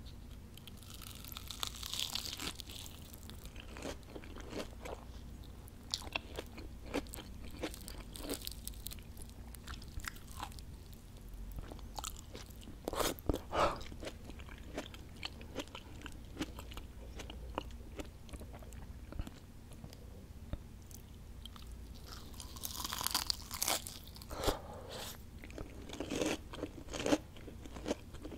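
Close-miked chewing of fried onion rings: bites into the crisp batter and crunchy chewing, with denser bursts of crunching about two seconds in, near the middle and near the end.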